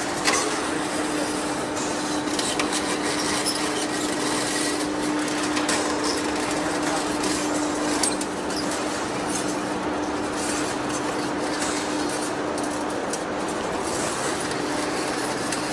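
Steady machinery noise with a constant hum and scattered clicks and knocks.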